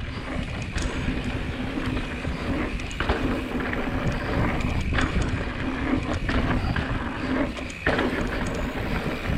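Mountain bike rolling fast down a dirt trail: a steady rumble of tyres on dirt, with the bike rattling and knocking over bumps and wind on the microphone.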